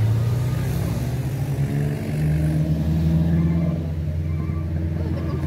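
Vehicle engine running while driving, with a steady low note that rises in pitch about two seconds in and settles back down near four seconds.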